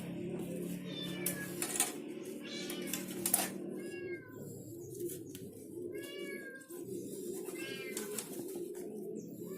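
An animal's short, arched pitched calls, repeated several times, over a steady low hum, with a few sharp clicks in the first half.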